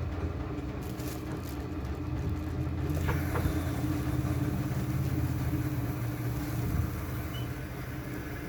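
Washing machine running with a steady low hum, with a couple of brief clicks early on.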